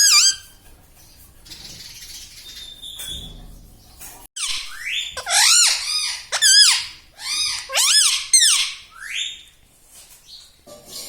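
Indian ringneck parrot calling: one loud squawk at the start, a quieter few seconds, then a run of about eight loud squawks, each rising and falling in pitch, from about four and a half seconds in until near the end.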